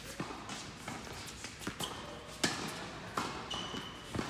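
Tennis balls being struck and bouncing on a court, a string of sharp irregular pops with the loudest about halfway through. Two short high squeaks come in, one about two seconds in and one near the end.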